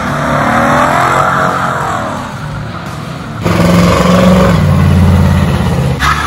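Car engine revving up and down. About halfway through there is an abrupt cut to a louder engine running steadily at a low pitch.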